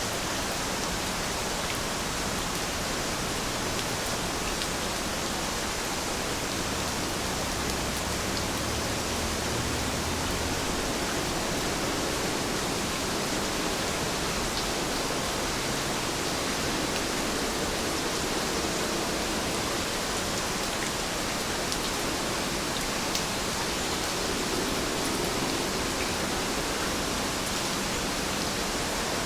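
Heavy rain falling steadily: a dense, even hiss with faint individual drop ticks scattered through it.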